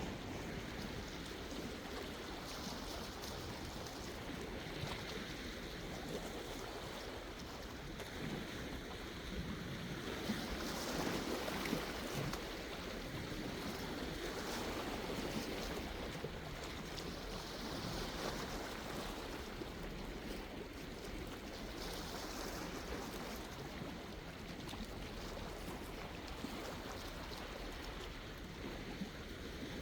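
Sea waves washing in and out, a steady rushing hiss that swells every few seconds as each wave comes in.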